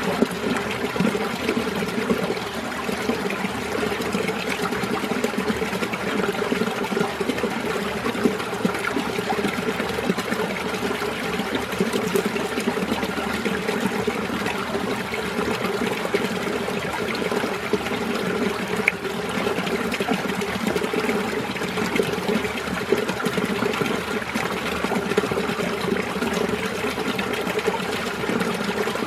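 Winter mountain stream flowing and trickling steadily, an even gurgling rush of water.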